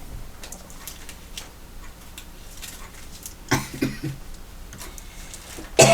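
Quiet small room with faint scattered ticks and light rustling, and a brief louder sound a little past halfway.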